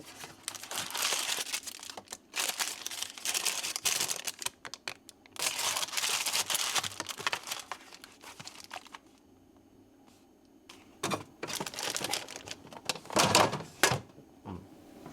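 Crinkly packaging being handled, rustling in uneven bursts, with a pause in the middle and a few sharp clicks and louder crinkles near the end.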